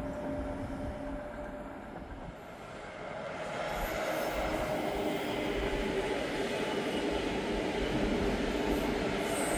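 A train running through, growing louder from about three seconds in as it nears, a steady rushing rumble with a few faint steady tones over it.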